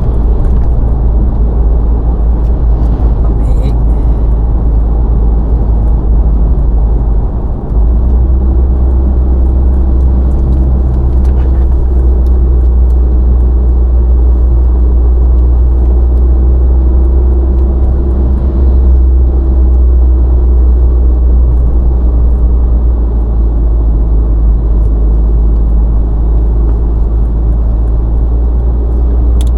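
Car driving at highway speed: a steady, loud low rumble of engine and road noise, with a brief dip about seven and a half seconds in.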